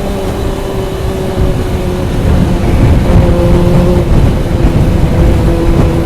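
Motorcycle engine running under way, its pitch dipping slightly and then rising again, with wind rushing on the microphone.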